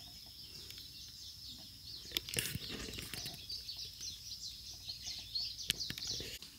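Forest birds chirping: many short, high chirps over a steady high-pitched tone, with a few sharp clicks.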